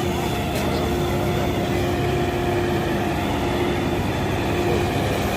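Heavy diesel engine running steadily, a low rumble with a steady whine over it.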